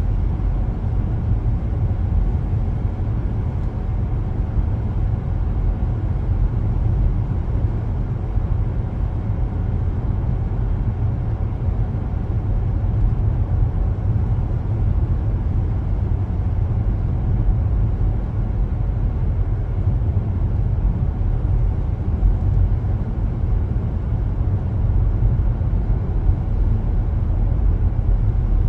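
A car driving at a steady pace, heard from inside: a constant low rumble of tyres on the road and the engine, with no sudden events.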